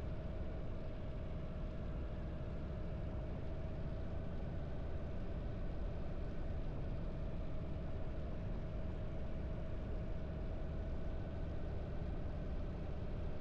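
Harley-Davidson V-twin motorcycle engine running at an even speed while riding, steady with no change in revs.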